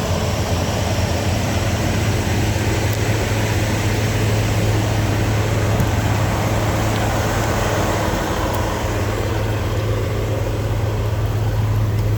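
Freightliner semi truck's diesel engine idling with a steady low hum, under a steady hiss of rain.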